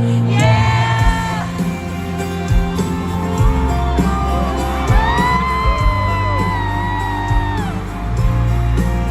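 Live pop music at a stadium concert, recorded from the crowd: a voice sings and holds long, wavering notes over a steady bass and drum beat. Fans whoop over it.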